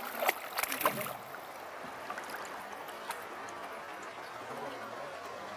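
River water flowing and gurgling steadily, with sharp splashes in the first second.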